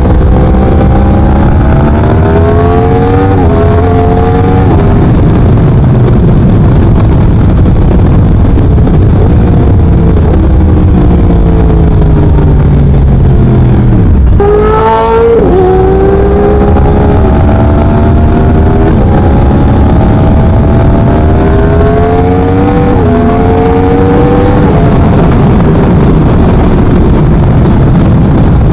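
2017 Yamaha R1's crossplane inline-four engine running through a Leo Vince 3/4 exhaust while riding, pulling up through the gears with the pitch climbing and dropping back at each upshift. About halfway through the revs fall steeply as the bike slows, then it pulls away and shifts up again.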